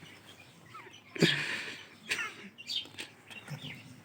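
Ringneck parrot chicks begging while being hand-fed: a loud harsh squawk about a second in, followed by a string of short chirps.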